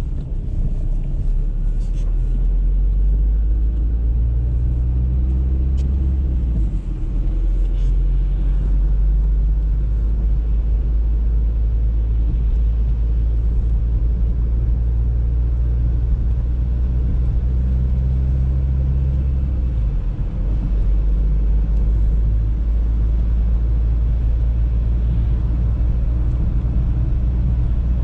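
Audi A3 driving, heard from inside the car: a steady low rumble of engine and road noise. The engine note shifts twice, with a brief dip in level about 7 and 20 seconds in.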